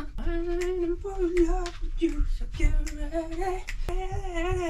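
A person humming a tune in long held notes with a wavering pitch, broken into short phrases, with a few sharp clicks in between.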